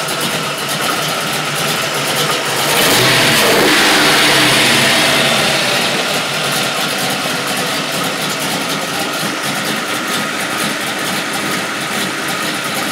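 Small-block Chevrolet 355 cubic-inch V8 idling, revved once about three seconds in, then dropping back to a steady idle.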